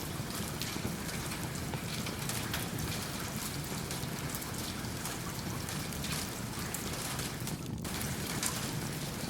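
Steady rain mixed with a crackling log fire: an even rain hiss dotted with many small sharp clicks.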